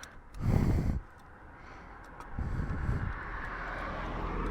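Road traffic: a short loud burst of noise about half a second in, then a vehicle going by, its rumble rising about two and a half seconds in.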